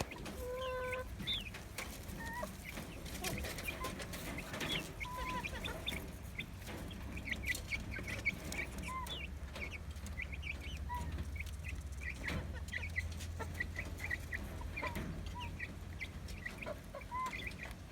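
A flock of weeks-old Noiler chickens cheeping and clucking, many short high calls overlapping, as they peck at cassava leaves. A low steady rumble sits underneath.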